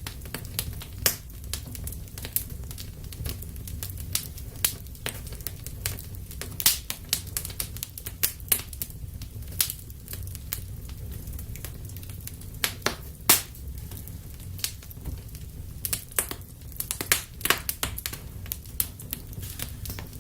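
Wood fire burning in a fireplace: irregular sharp crackles and pops over a steady low rumble of the flames, with the loudest pop about thirteen seconds in.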